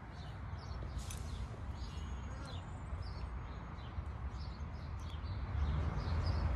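Small birds chirping in short repeated calls, over a low rumble on the microphone that grows louder near the end.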